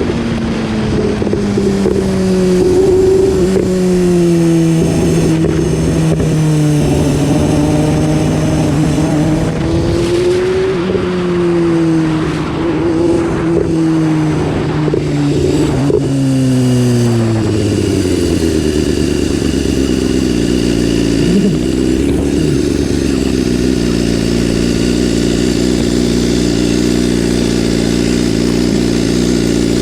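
BMW S1000RR inline-four engine on the move, its pitch rising and falling with the throttle. About two-thirds of the way through it winds down and settles to a steady idle.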